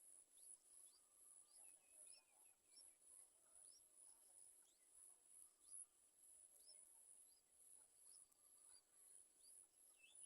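Faint outdoor ambience: a high-pitched insect trilling in steady pulses, with short high bird chirps repeating about twice a second.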